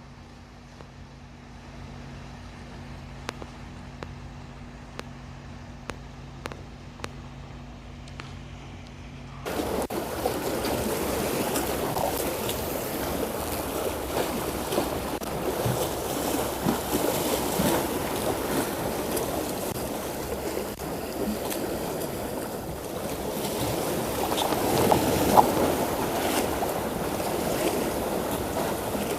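A boat at sea. At first a steady low hum with a few light ticks; then, about nine seconds in, a sudden change to a much louder, steady rush of wind and water as the boat runs over the sea.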